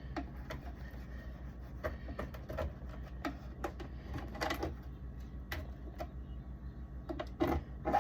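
Scattered light clicks and knocks at an irregular pace, over a low steady hum. These are things being handled while a fridge is cleared out.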